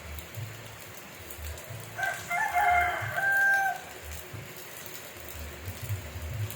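A rooster crows once, about two seconds in, the call lasting about two seconds and ending on a long held note, over steady rain.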